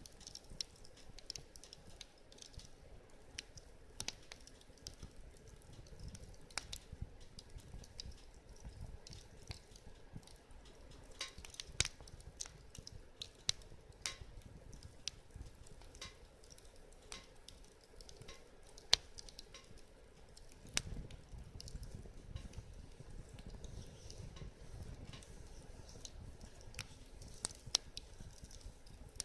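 Wood fire crackling in a fire pit: scattered sharp pops and snaps at irregular intervals over a faint steady hiss, with a low rumble coming in about two-thirds of the way through.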